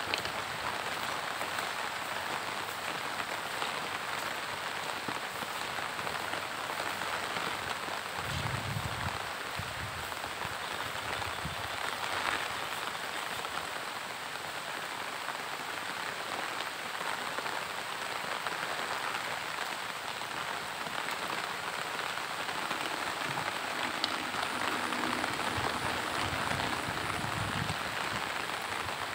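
Steady monsoon rain falling, an even hiss with scattered drops ticking.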